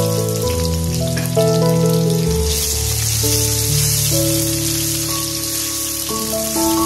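Potato cubes frying in hot mustard oil in a steel kadai, with a steady sizzle, under background music of held notes that change every second or so.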